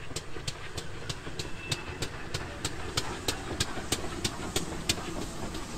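Train running: a low rumble under an even, steady clicking of about three clicks a second.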